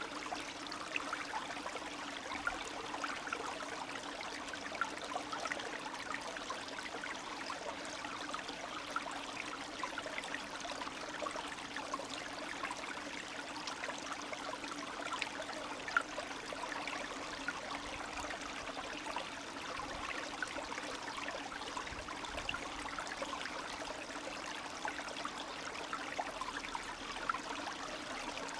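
Small spring stream trickling and babbling steadily, with many little splashes and droplet sounds.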